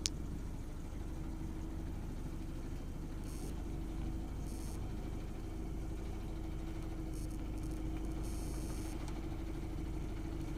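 Dump truck engine running steadily, a low rumble with a held hum over it. A sharp click right at the start.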